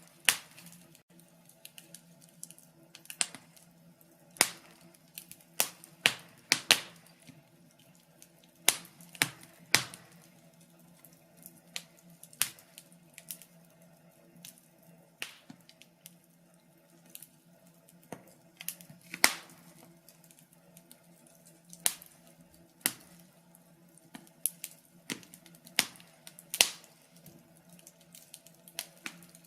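Wood fire crackling: irregular sharp pops and snaps, roughly one or two a second, some louder than others, over a faint steady low hum.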